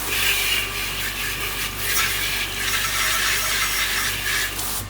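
Water spraying into a coffee grinder's bean hopper to rinse it out: a steady hiss of spray hitting the hopper that cuts off suddenly near the end.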